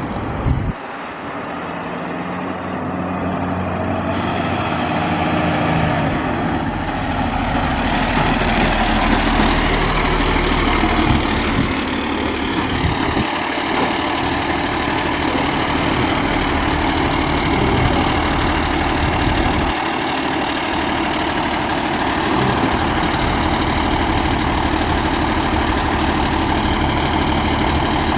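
Fire truck engine running, a heavy truck's steady rumble with road noise. There is a short break about a second in.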